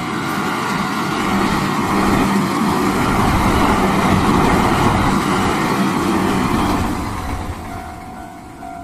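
JR train passing over a level crossing laid on temporary track: the rumble of the train swells to a peak about halfway through and then fades, with a steady hum underneath. The crossing's warning bell, masked while the train goes by, is heard again near the end.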